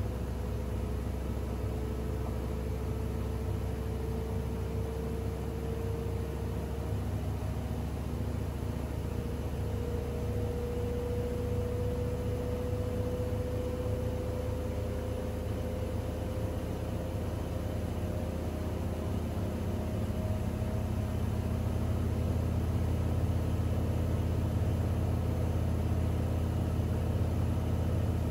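Siemens iQ700 WG56B2090 front-loading washing machine running, a steady hum with a motor whine that slowly rises in pitch as the drum speeds up. It grows louder about two-thirds of the way through.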